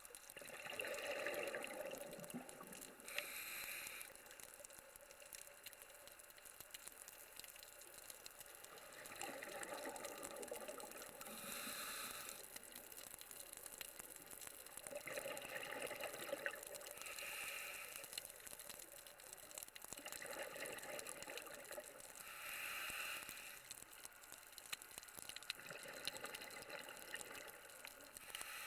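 Scuba diver breathing through a regulator underwater: five breathing cycles, each a longer bubbling rush followed by a shorter hiss, about every five to six seconds.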